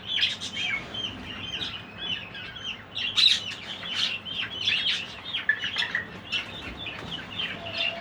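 A flock of budgerigars chattering: many short, overlapping warbled chirps, continuous and busy throughout.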